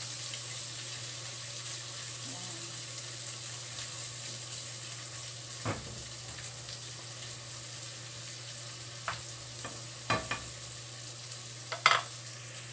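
Chopped bacon and garlic sizzling steadily in a frying pan while being stirred with a wooden spatula. There are a few sharp knocks, and the loudest comes near the end.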